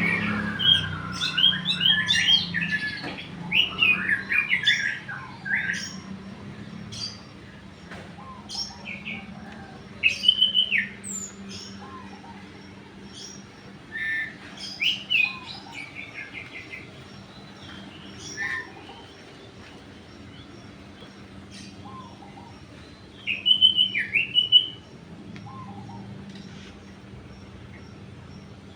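Small birds chirping and calling in irregular bursts of quick notes, loudest near the start and again about 10 and 24 seconds in, over a faint steady low hum.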